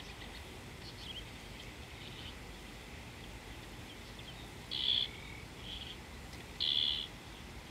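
Wild birds calling: short chirps, the two loudest about five and seven seconds in, over a steady low background hum of outdoor noise.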